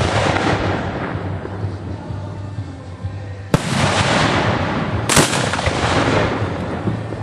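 Fireworks fired from ground mortar racks at close range: continuous crackling and hissing, with two sharp launch bangs about a second and a half apart around the middle, each trailed by a long fading hiss.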